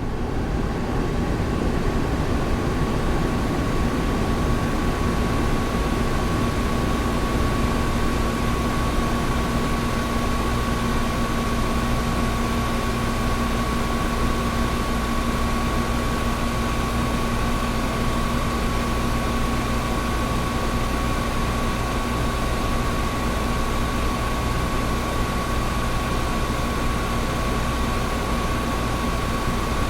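Air conditioner running steadily: an even rushing noise over a deep hum, with two held tones, one low and one higher and thinner.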